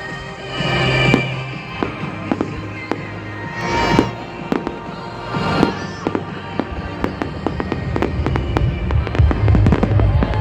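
Fireworks display: many bangs and crackles in quick succession, with louder swells about one, four and five and a half seconds in. Music plays underneath, its bass growing stronger near the end.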